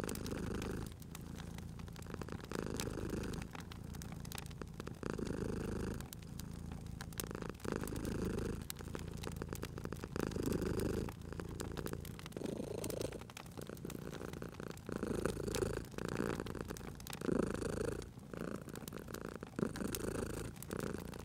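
Domestic cat purring in slow, even cycles, swelling and fading about every two seconds with each breath, over the light crackle and pops of a wood fire.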